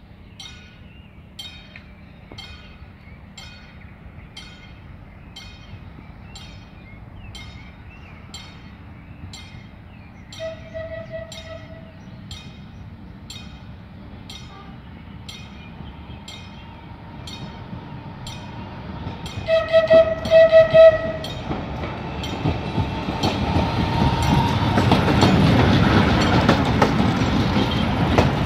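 A CAF-UTA 3700 electric light-rail train on the Tren de la Costa sounds its horn twice, a short blast and then a longer, louder, pulsing one. It then approaches and passes close by, its running and wheel noise building to a loud rumble. Through the first part a level-crossing warning bell ticks evenly, about one and a half strokes a second.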